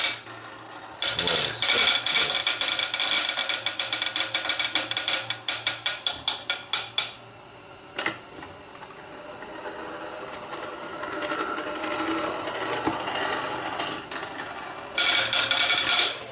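Hand-powered forge blower turned over, its gearing giving a fast run of ratcheting clicks that spaces out and stops about seven seconds in. A single click follows, then a quieter stretch, and another short burst of fast clicking near the end. The blower is being tested for the rattle from play in its shaft.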